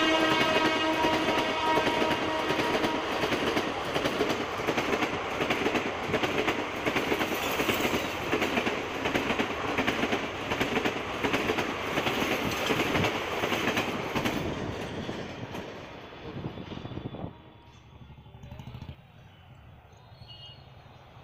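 Passenger train of old ICF coaches passing close at speed, its wheels clattering over the rail joints at about two clacks a second, with the last of a train horn dying away at the very start. The clatter fades as the train recedes and cuts off about 17 s in, leaving quiet open-air background.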